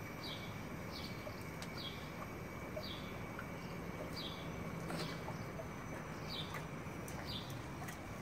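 A bird calling over and over, a short high falling chirp roughly once a second, over a low steady hum.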